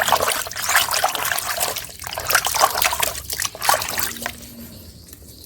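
Water trickling and splashing over a small plastic toy as it is rinsed clean of sand, stopping about four seconds in.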